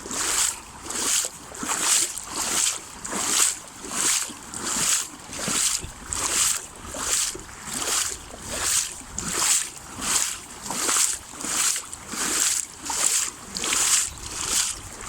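Legs in waders pushing through knee-deep floodwater, a regular swish and slosh with each stride, about one stride every three-quarters of a second.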